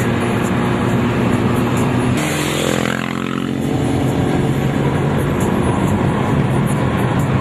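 Motor vehicle engines running steadily amid street traffic. About two seconds in the engine sound changes abruptly, and a sound falls in pitch over about a second.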